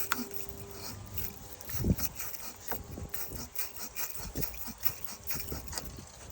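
Irregular light clicks, taps and scrapes of hands and tools working on a corroded battery terminal, with one heavier knock about two seconds in.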